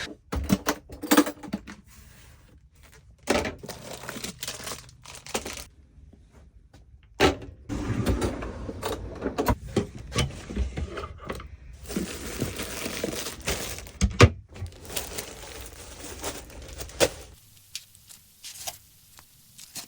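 Hands making a sandwich: scattered clicks and knocks from handling containers and food packaging, with a busier stretch of rustling in the middle. A low background rumble stops near the end.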